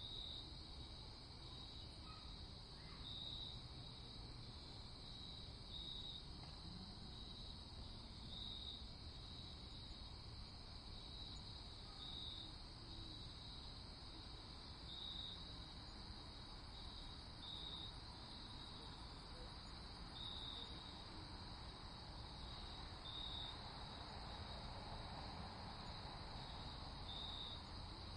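Crickets chirping in a night ambience: a faint, steady high trill with short, louder chirps every two to three seconds, over a low background hush.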